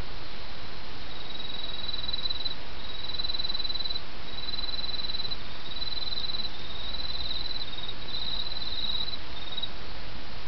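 An autumn insect trilling in a run of phrases about a second long with short breaks, over the steady rush of a small stream.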